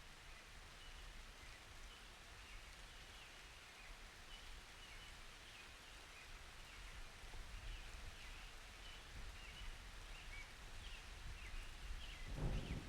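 Faint, light rain with scattered high chirps throughout, and a rumble of thunder starting to build near the end.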